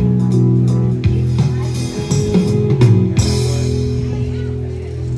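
Country band playing the instrumental bars at the end of a song, with guitar, bass and drums, and a cymbal crash about three seconds in.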